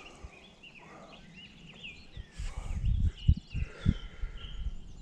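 Songbirds singing and chirping, many short rising and falling notes all through. Several brief low thumps come between about halfway and four seconds in.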